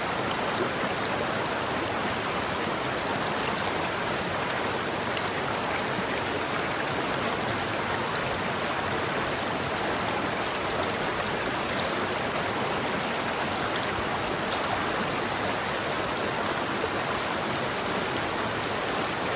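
River water flowing over rocks, a steady rushing with small splashes.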